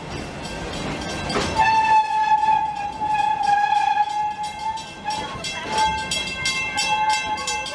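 Park excursion train running on its track, with a long, slightly wavering high-pitched tone sounding over it. Evenly repeating clicks of the wheels over the rail joints come in during the second half.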